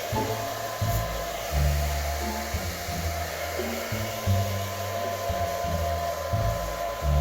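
Hair dryer running steadily, a whine over a blowing hiss, with background music whose low notes change every second or so.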